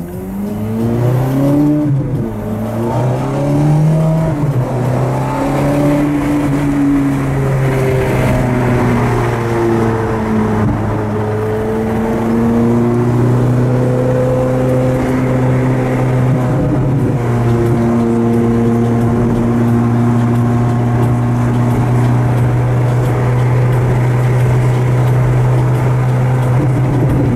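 Ferrari F430's V8 through a Capristo aftermarket exhaust, heard from inside the cabin while driving. Its pitch rises and drops several times over the first ten seconds or so, then holds at a steady cruising drone.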